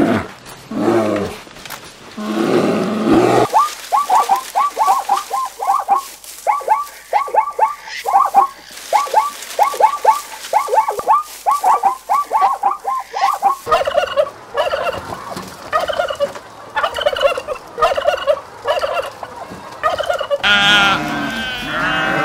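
A series of animal calls: about three seconds in, a long run of quick, falling notes in rapid clusters begins and lasts some ten seconds. A different repeated call follows, and near the end goats bleat.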